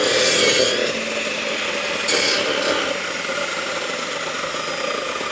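Corded electric saw running and cutting through a log, with louder, harsher stretches as it bites into the wood near the start and again about two seconds in.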